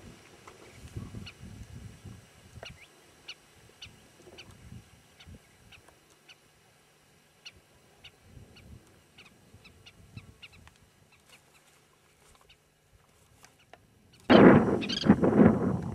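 Small birds calling with short, high chirps scattered every second or so, over faint wind rumble on the microphone. About fourteen seconds in, loud wind buffeting the microphone takes over.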